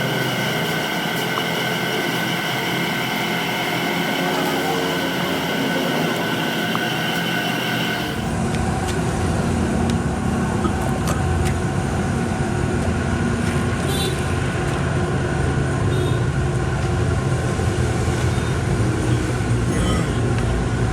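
Machinery running: a steady whine with several high tones, then an abrupt change about eight seconds in to a louder, low engine-like rumble.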